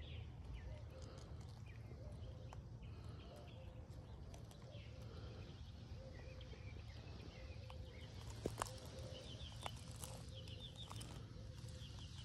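Faint outdoor background of small birds chirping now and then, over a steady low rumble, with a few sharp clicks about eight and a half seconds in.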